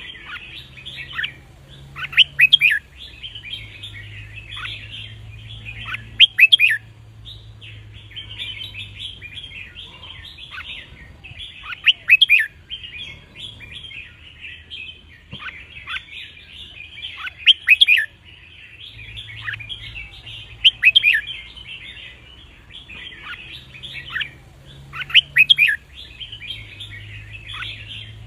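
Red-whiskered bulbul singing: a continuous chattering warble punctuated every few seconds by loud, clear whistled phrases. A faint steady low hum runs underneath.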